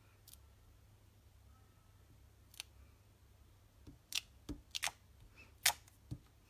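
Scattered sharp clicks and taps, about ten of them at irregular spacing and mostly in the second half, from paper-crafting supplies being handled on a desk.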